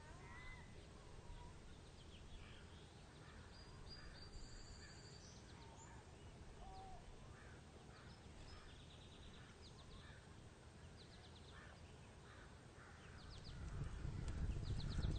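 Birds chirping and calling, many short scattered notes and a few trills, over a faint steady background hiss. A rising rush of wind-like noise swells in near the end.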